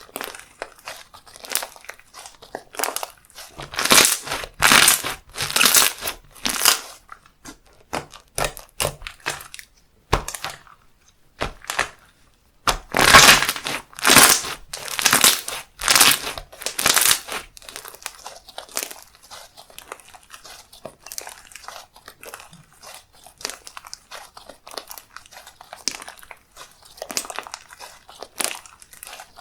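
Handmade slime being squished, pressed and stretched by hand, making dense runs of small clicks and crackles. The sounds come in clusters, loudest for a few seconds about four seconds in and again around the middle, with a short pause between.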